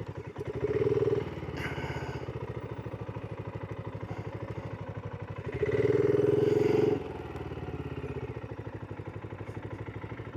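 Single-cylinder motorcycle engine idling at a standstill with a steady, evenly pulsing beat, revved briefly twice: once near the start and again just past the middle.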